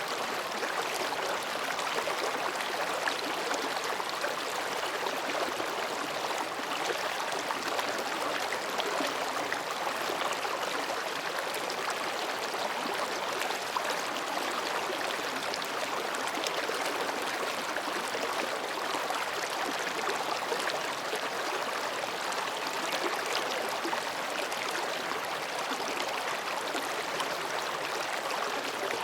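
Mountain stream babbling between rocks: a steady rush of water that keeps up without a break.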